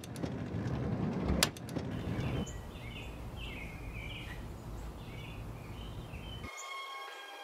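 Background noise with birds chirping in short, repeated calls, and one sharp click about a second and a half in.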